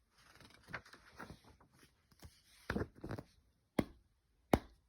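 A few faint, irregular taps and clicks, like handling noise.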